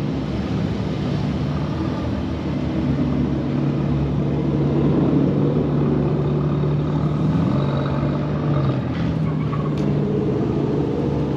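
A car engine running steadily with a low hum, its pitch shifting slightly about three quarters of the way through.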